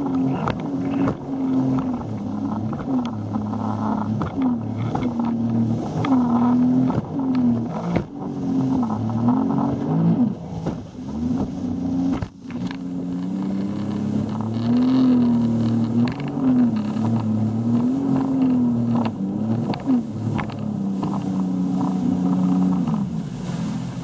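Motorboat engine running under way, its pitch rising and falling again and again.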